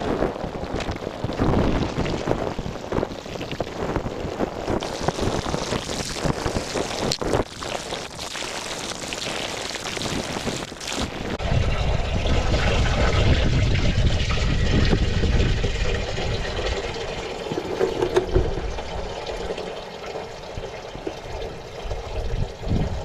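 Fuel pouring out of the opened drain fitting at the bottom of an old truck's fuel tank into a catch bucket, with a few knocks in the first half. About eleven seconds in, the pouring turns lower and louder for several seconds, then eases.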